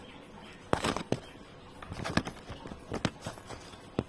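Scattered sharp clicks and taps of handling, about seven in four seconds, the loudest a little under a second in and just after two seconds, over a low background hiss.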